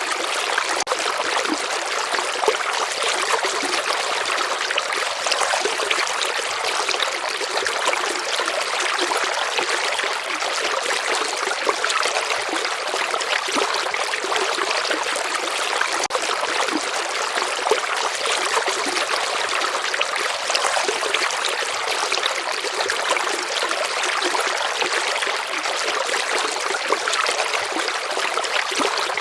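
A gently flowing river or stream: water trickling and babbling, a steady hiss with many small splashes and little low rumble.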